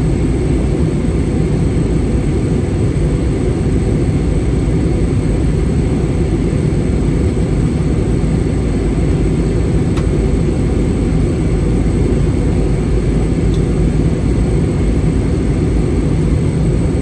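Steady cabin noise inside an Airbus A320 airliner in flight: an even, low roar of the engines and the air rushing past the fuselage, with a faint high whine running steadily through it.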